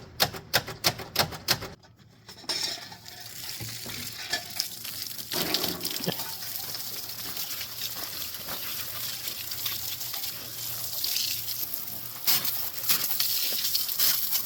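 Steady fizzing, sizzling hiss of frothy, dish-soap-laden fluid from the engine, after a quick run of sharp clicks in the first two seconds.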